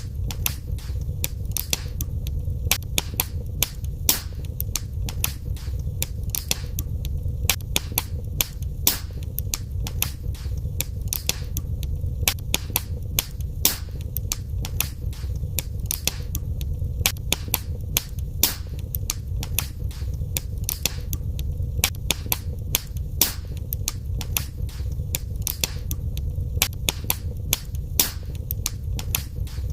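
Wood fire in a fireplace crackling: frequent sharp pops and snaps at irregular intervals over a steady low rumble.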